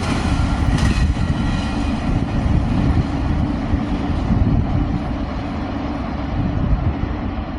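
CSX intermodal freight train rolling past on the track: a steady low rumble of cars and wheels, with a couple of sharp clacks in the first second. The higher part of the sound fades over the last few seconds as the train draws away.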